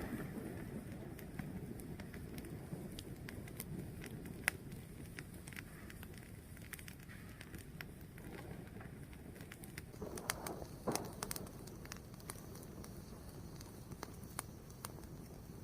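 A fire burning with a steady low rush, crackling with scattered pops, one louder pop about four seconds in and a quick flurry of pops near two-thirds of the way through.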